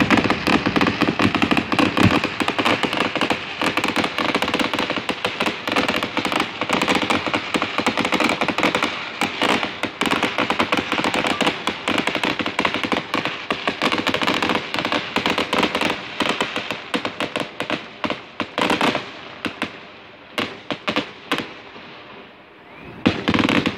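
Fireworks crackling and popping in a rapid, dense stream, thinning out to scattered pops over the last few seconds, with one louder burst at the very end.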